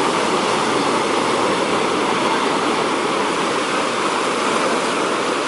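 Heavy surf breaking on a sandy beach: a continuous, dense rush of big waves with no separate crashes standing out.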